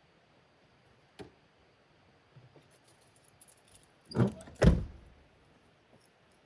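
A sharp click about a second in, some light rattling and clicking, then two heavy thumps in quick succession past the middle, the second the loudest.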